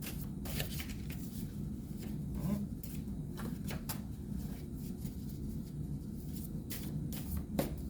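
Tarot cards being handled, with scattered short card snaps and flicks over a steady low hum.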